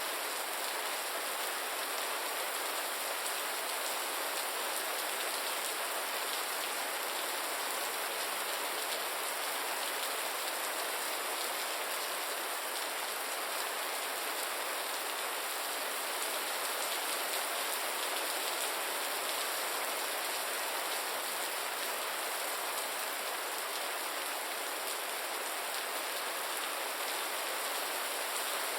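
Steady, gentle rain falling: an even, unbroken hiss of many drops, with no thunder or other events.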